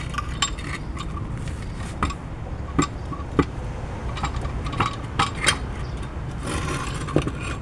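Irregular sharp metallic clinks and knocks of hand tools on steel during removal of a riveted lower ball joint from a control arm: about nine strikes, spread unevenly, over a low steady hum.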